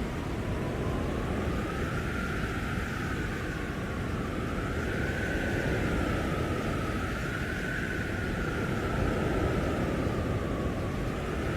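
Blizzard wind blowing with a steady rushing noise, over which a howling whistle slowly rises and falls in pitch.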